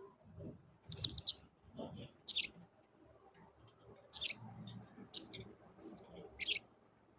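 Blue-crowned hanging parrot (serindit) calling: about six short, sharp, high-pitched chirps spread over a few seconds, the loudest about a second in. Faint low knocks and rustling lie beneath them.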